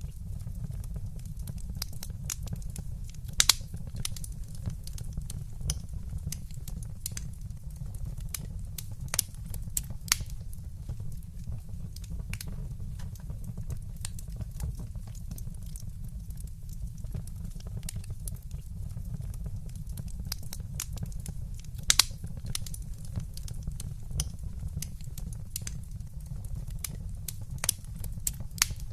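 Wood fire crackling in a fireplace: scattered sharp pops and snaps over a steady low rumble, with two louder pops, one about three and a half seconds in and one a little past twenty seconds.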